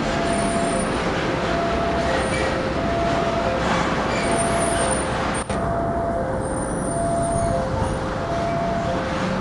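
A passenger train's diesel locomotive rumbles steadily as it approaches. Over it, a two-tone warning alarm keeps alternating between a lower and a higher note, as a level crossing signal does. About five and a half seconds in there is a brief drop-out.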